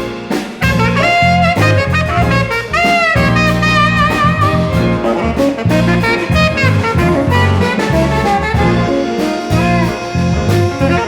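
Live jazz ensemble playing: a tenor saxophone line with bending, sliding notes over bass and drum kit, with brass in the band.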